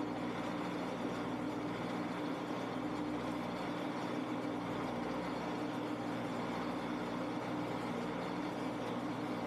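Shopsmith's motor running steadily as a wood lathe, a constant hum over a whir, while the spinning spalted maple peppermill blank is at the sanding stage.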